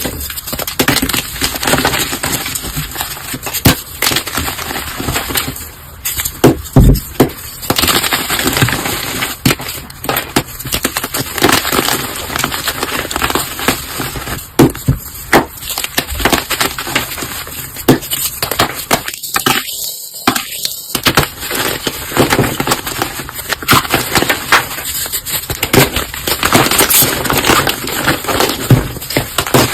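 Dense crunching and crackling of objects being crushed, a rapid run of sharp snaps and crunches cut close together, with a brief break about twenty seconds in.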